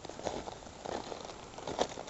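Footsteps crunching and scraping over rough, loose volcanic rock: an irregular run of short crackly crunches as someone picks their way across a lava flow.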